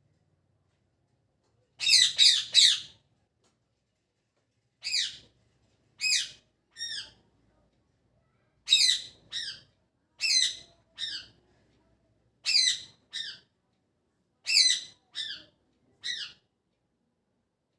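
Pet parrot giving short chirping calls that each drop in pitch, mostly in pairs or threes with pauses of a second or two between.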